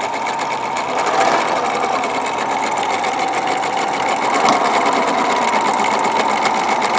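Husqvarna Viking 950 sewing machine running steadily, stitching a decorative pattern.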